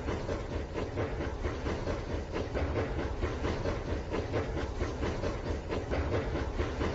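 Battery-powered Rail King toy train running on its plastic track: a continuous rattle of fast, irregular clicks over a steady motor and wheel noise.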